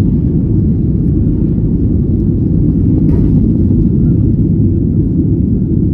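Steady low rumble of a Boeing 737 airliner taking off, with a faint brief noise about three seconds in.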